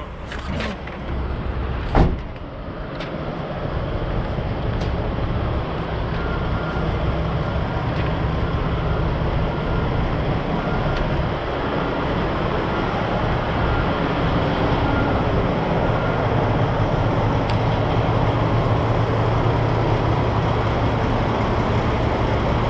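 Semi truck's diesel engine running with a steady low drone that grows a little louder after the first few seconds. A single sharp knock about two seconds in.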